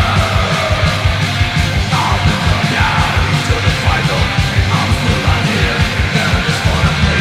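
Heavy metal recording: fast drumming with a rapid pounding beat under dense distorted guitars, with shouted vocals.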